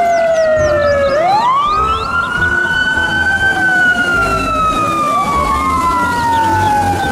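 Fire truck siren wailing in slow rises and falls, two wails overlapping.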